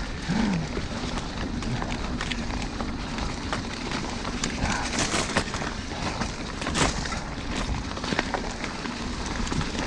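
Mountain bike riding down a dirt trail: steady wind and tyre rumble with frequent rattles and knocks from the bike over rough ground.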